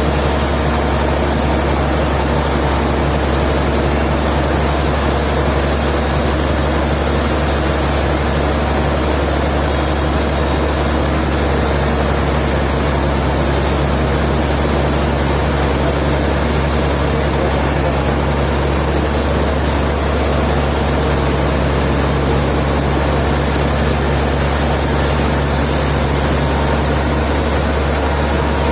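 Sawmill machinery running steadily: a loud, even engine hum that holds the same level throughout.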